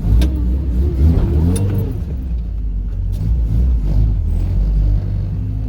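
A vehicle engine running with a heavy low rumble. Its pitch wavers up and down briefly about a second in, then settles back to a steady run.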